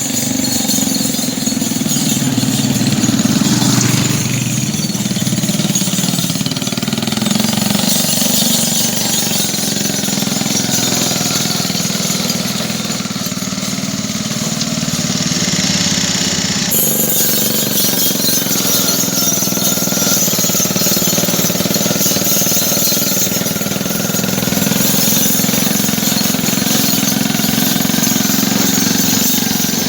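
Mini tractor engine running steadily and loud throughout. The sound shifts abruptly about 17 seconds in.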